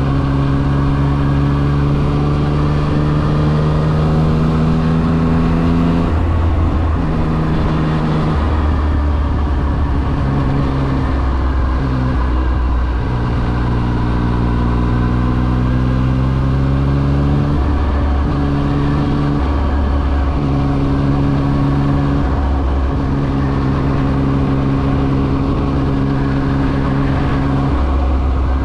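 Yamaha XSR900's inline-three engine running while riding, its pitch holding, dropping in steps and climbing again several times as the throttle and gears change. A steady low wind rumble runs underneath.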